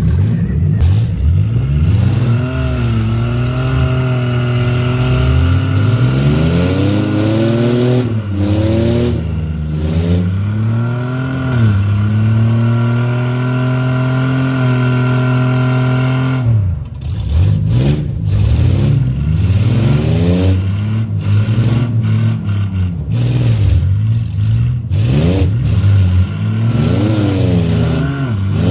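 Car engine revving up and down over and over, held at high revs for a few seconds past the middle, dropping off sharply, then blipped up and down again.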